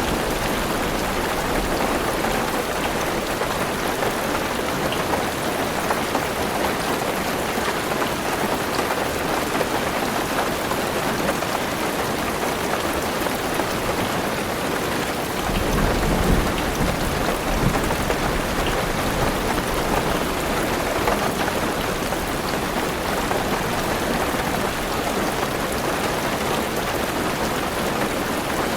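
Heavy rain pattering steadily on a car roof, with a low roll of thunder a little over halfway through.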